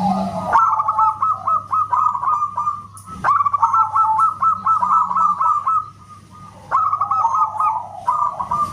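Perkutut (zebra dove) cooing in fast runs of short, high, repeated notes. The runs come in bursts that start and stop abruptly, with a short break a little past the middle.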